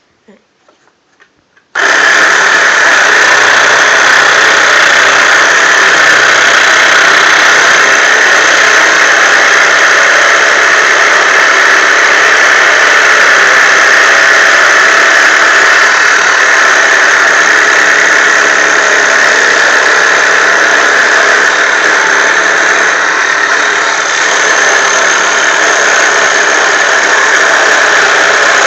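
Small electric toy jigsaw (scroll saw) switched on about two seconds in, then running steadily and loudly.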